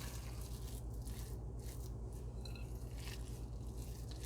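Soft, irregular squishing and scraping of a thick, creamy manicotti filling mixture being handled, over a steady low electrical hum.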